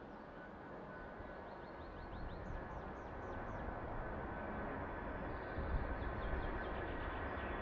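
Jet aircraft approaching, its engine noise growing steadily louder. Small birds chirp in short, quick falling notes over it.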